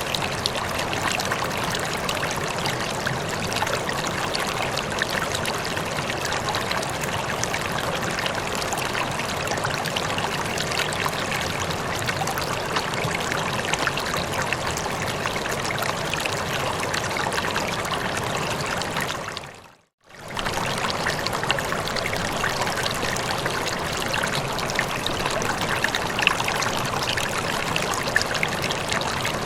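Steady running water, an even rushing and trickling that fades out briefly to silence about twenty seconds in and then resumes at the same level.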